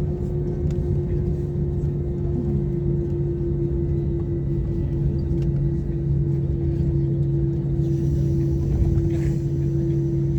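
Airbus A320-232 cabin noise: the IAE V2500 engines running at a steady, unchanging pitch, a low hum with a deep rumble beneath, heard from inside the passenger cabin.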